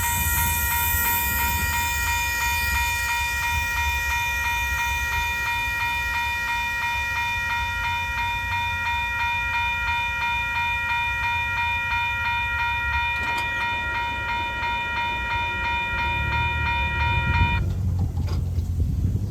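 A train rumbling past while a grade-crossing warning bell rings in rapid, even pulses of one high tone; the bell stops abruptly near the end as the crossing clears, leaving the train's rumble.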